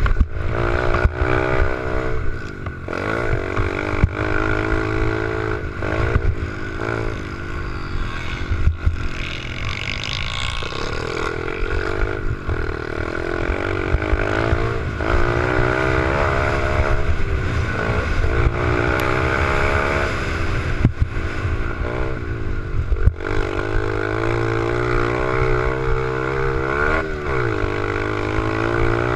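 Small 88cc pit bike engine running hard, its pitch rising and falling again and again as the throttle is opened and shut, with occasional sharp knocks.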